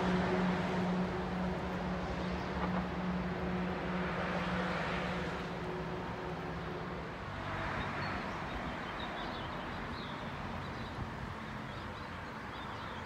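Passenger train running away down the line. Its steady low engine hum and rumble fade out about seven seconds in, leaving faint outdoor noise with a few high chirps near the end.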